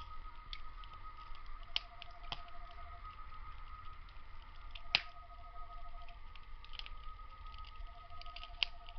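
Firewood burning in a small grill, crackling with irregular sharp pops, the loudest about halfway through. Behind it night insects sing: a steady high trill and a lower pulsed trill of about a second, repeating every three seconds or so.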